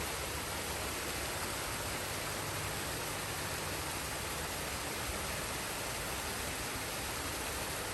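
Forest waterfall and stream: a steady, even rush of falling and flowing water.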